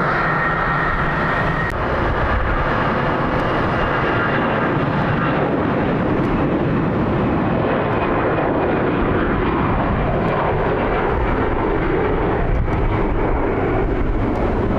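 Jet airliner engines at high power: a loud, steady noise with a thin whine that fades within the first few seconds.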